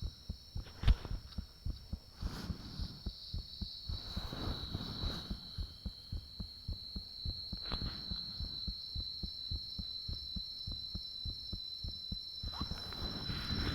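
Human heartbeat recorded up close: a quick run of low, dull thumps, with a steady high-pitched whine running through it. A sharp knock stands out about a second in.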